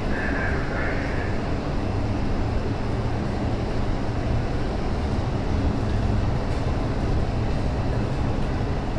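MTR Kwun Tong line Q-train running through the station as it pulls out: a steady rumble of the train's wheels and running gear.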